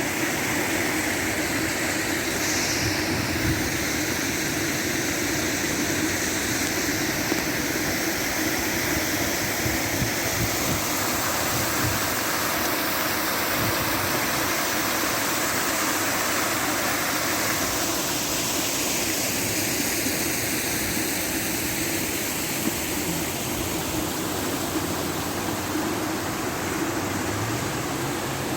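Outdoor water fountain splashing in a steady, even rush of falling water.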